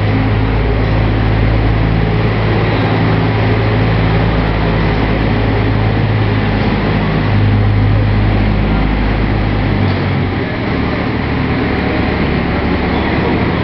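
Pulling truck's engine running loud and steady at a held speed. Its deepest note drops away about ten seconds in, leaving a slightly different steady drone.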